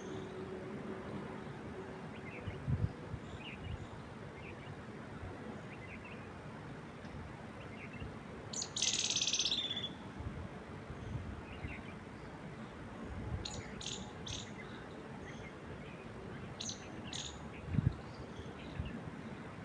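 Wind moving steadily through trees, with birds chirping: one dense high trill lasting about a second near the middle, then several short high chirps in the second half. Two brief low thumps, one about three seconds in and one near the end.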